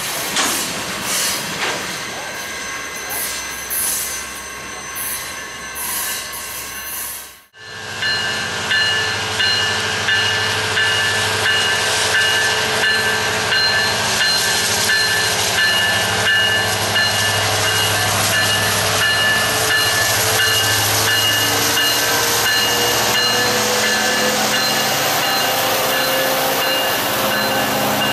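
Freight train rolling past, a string of covered hopper cars. After a sudden cut, a louder stretch: a BNSF diesel locomotive running as it leads a coal train by, with steady high-pitched wheel squeal over the engine's low drone and a tone that slowly rises in pitch near the end.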